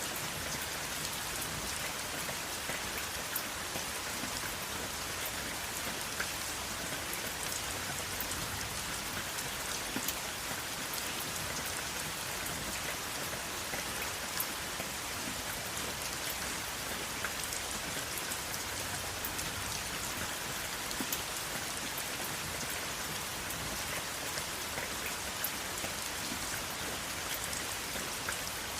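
Steady rain falling, an even hiss with many individual drops ticking sharply on a hard surface, and no thunder.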